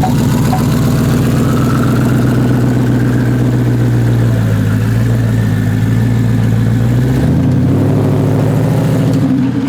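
Pickup truck engine idling loudly and steadily; about seven seconds in its tone shifts and the deepest part of the rumble drops away.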